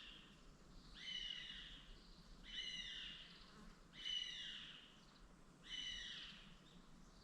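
A bird giving the same short call about five times, roughly every second and a half, each call a brief ringing note with an arched sweep, over faint outdoor ambience.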